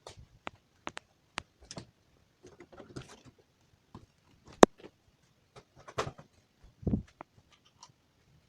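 Irregular clicks and knocks, with one sharp loud click about halfway through and a couple of duller thumps after it.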